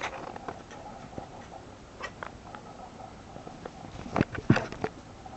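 Domestic cat making a few short, separate vocal sounds at a bird, with the two loudest about four seconds in.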